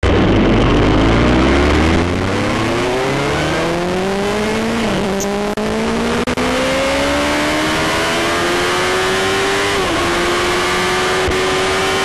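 Yamaha R1 sportbike's inline-four engine under hard acceleration, heard from on the bike: the pitch climbs steadily, drops sharply at a quick upshift about five seconds in and again about ten seconds in, then holds nearly level at high revs.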